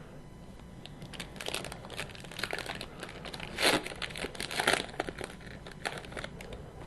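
Foil wrapper of a hockey card pack crinkling and tearing as it is opened by hand, in a run of short crackles with two louder bursts past the middle.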